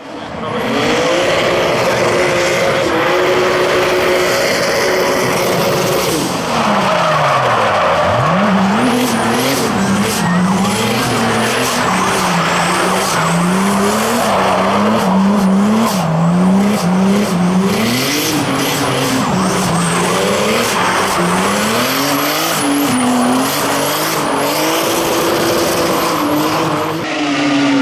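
Rally car engine at full throttle. It holds high revs for several seconds, then drops steeply in pitch, then revs rapidly up and down for most of the rest, with tyres skidding.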